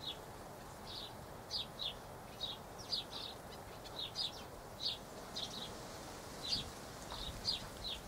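Small birds chirping: short, high chirps repeated irregularly, about two or three a second.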